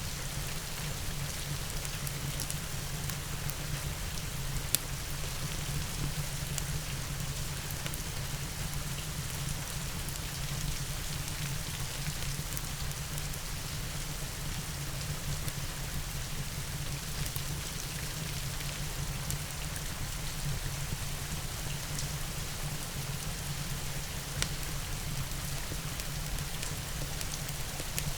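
Steady rain falling, an even hiss with a low rumble under it, mixed with scattered crackles from a wood fire and two louder pops, about five seconds in and near the end.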